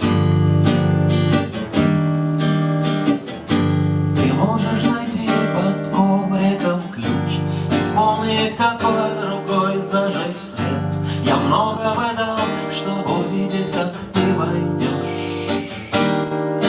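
Acoustic guitar strumming chords as the instrumental introduction to a rock-ballad song, with a higher melody line weaving over the chords in the middle.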